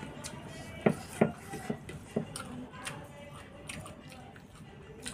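A person eating rice and fried fish with the hand: close chewing and mouth sounds. There are a few sharp clicks between about one and two seconds in, then quieter chewing.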